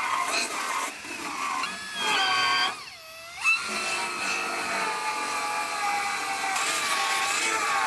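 Handheld grinder whining as it works on rusted truck bedside sheet metal, its pitch wavering under load. About three seconds in it spins down and winds back up.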